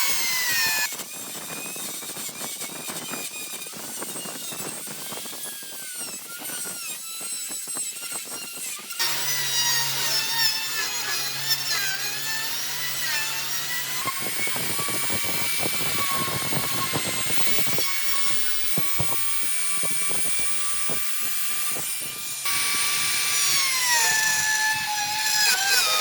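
Electric power tools whining at high speed as they cut or shape wood. The pitch dips and recovers as the tool takes load, and the sound changes abruptly a few times from one tool or cut to another.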